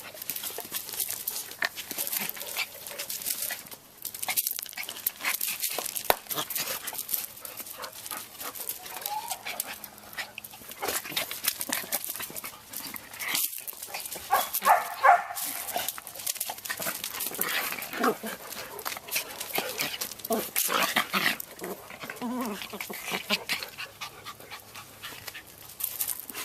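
Dogs moving about, with steady rustling and crackling and a few short pitched sounds around the middle.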